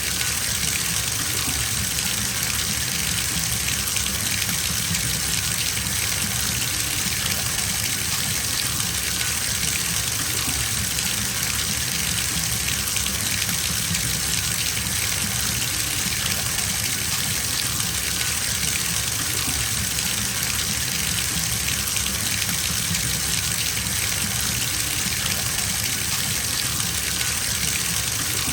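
Water gushing from a bathtub tap into the tub as it fills, a steady, even rush of running water.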